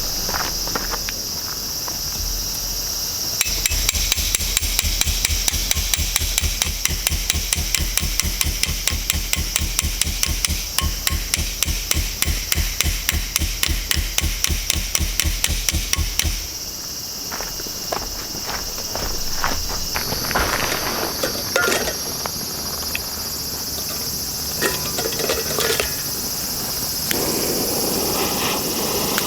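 Metal hammer blows in a steady, fast rhythm, several a second for about thirteen seconds, over a constant high drone of insects. After the hammering stops there are a few scattered knocks.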